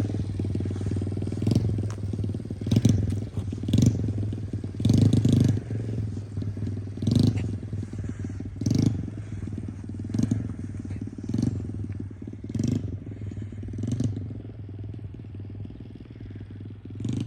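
Motorcycle engine running at low speed, with short louder surges every second or so, growing fainter toward the end.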